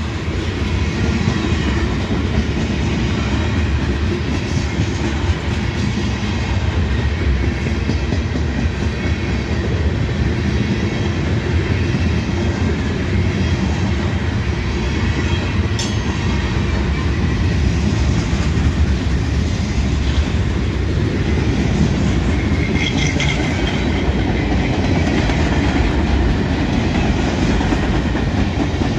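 Freight train cars rolling past, the steel wheels clattering steadily over the rail joints, with one sharp click about halfway through and a faint wheel squeal near the end.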